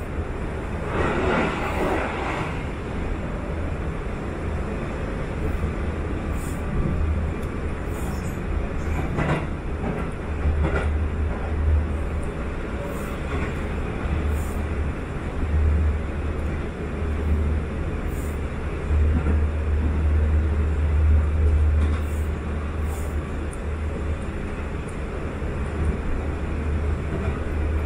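Cabin running noise of a Sanyo Electric Railway 5000 series electric train at speed: a steady low rumble with a few short clicks of the wheels. A brief rush of noise about a second in as it passes through a station without stopping.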